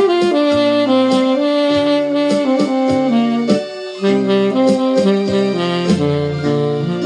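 Saxophone playing a melody of held notes over a backing track with a bass line and a steady drum beat.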